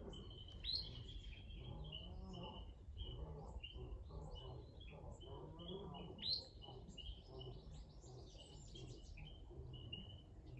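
Birds calling: a high, steady note repeated in short pieces over and over, with a few sharp rising chirps about a second in and again about six seconds in.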